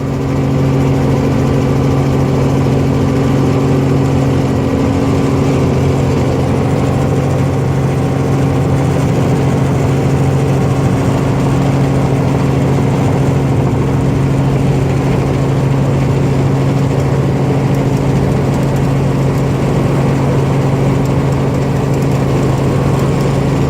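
Helicopter running steadily: a loud, even drone with a constant low hum that does not change in pitch.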